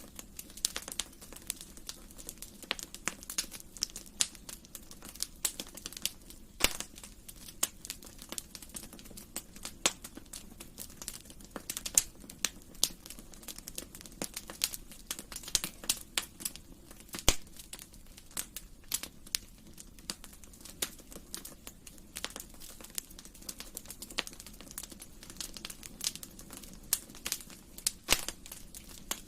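Wood fire in a fireplace crackling, a steady stream of small irregular snaps and pops with a few louder cracks, over a faint low hum.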